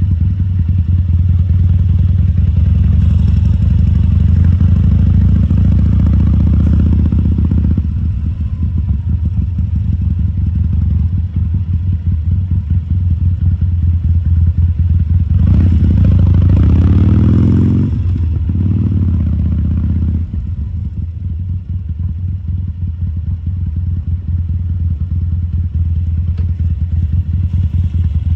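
2014 Harley-Davidson Sportster XL1200C's 1200 cc V-twin running at low speed. The throttle opens and the pitch rises twice, about three seconds in and again around fifteen seconds in, each time falling back to a steady lower rumble.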